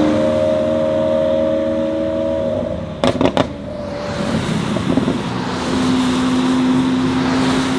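Lamborghini Aventador V12 through an Fi aftermarket exhaust holding a steady high engine note, then a quick cluster of sharp exhaust pops about three seconds in, after which it settles to a lower steady drone.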